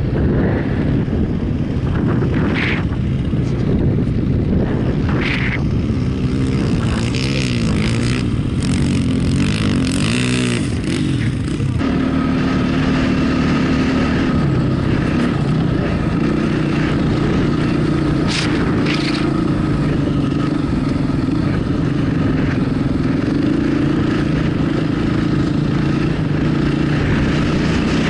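Off-road motorcycle engine running under way, heard from the rider's helmet camera. In the first part the revs swing up and down, then hold steadier from about halfway.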